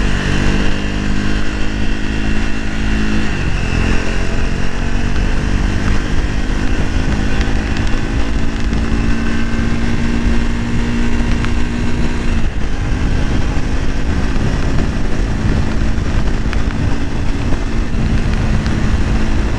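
Triumph Speed 400's single-cylinder engine running while being ridden, its note holding and shifting with the throttle, dropping about twelve seconds in.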